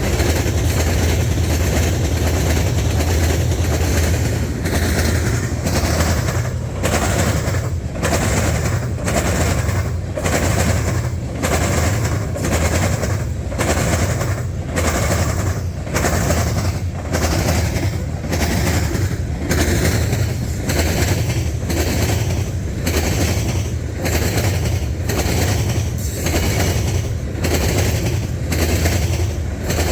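Freight train rolling past at track side, its wheels clicking over rail joints in a steady rhythm above a low rumble.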